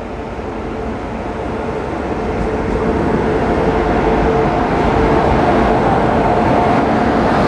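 Hirakhand Express passenger train pulling into the station, its rumble growing steadily louder as it draws near, with a steady hum running through it.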